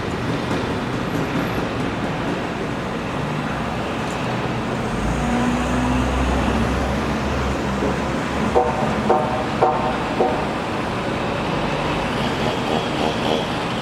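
Steady street traffic noise. A heavy vehicle rumbles past about five to seven seconds in, and a few short pitched sounds come near the nine- to ten-second mark.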